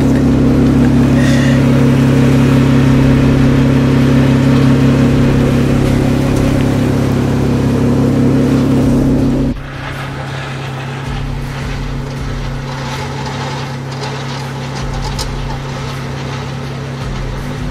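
Jeep Wrangler's engine running steadily at close range while the vehicle sits stuck in a mud rut. About halfway through the level drops suddenly to a quieter, steady engine hum with faint clicks.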